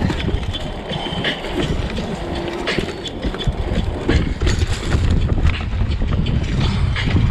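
Bicycle ridden over rough ground: a steady rumble of tyres with frequent knocks and rattles from the bike.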